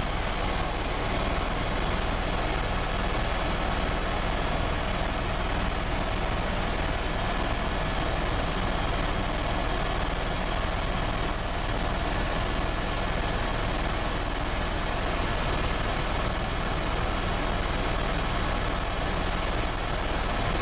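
Helicopter engine and rotor running steadily: an even, unchanging drone with a faint high whine held through it.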